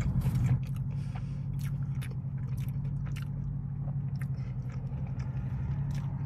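Close-up chewing and wet mouth clicks of someone eating a sauced chicken wing, over a steady low hum.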